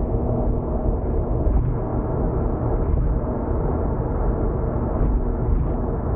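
Car cruising at expressway speed, heard from inside: a steady low rumble of tyre road noise and engine drone with a faint steady hum, and a few faint knocks.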